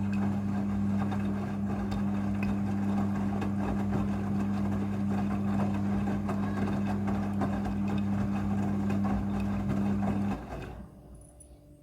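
Midea front-loading washing machine running, with a steady low electrical hum over water rushing. The sound cuts off about ten seconds in and dies away.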